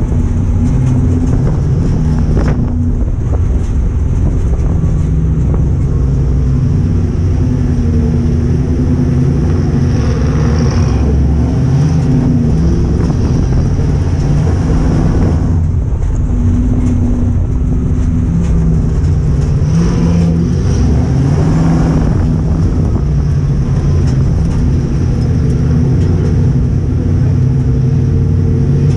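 Crown Victoria dirt-track race car's 4.6-litre V8 engine heard from inside the stripped cabin, running hard under racing load. The engine note rises and falls over and over as the throttle comes off and back on around the oval, with road and wind noise mixed in.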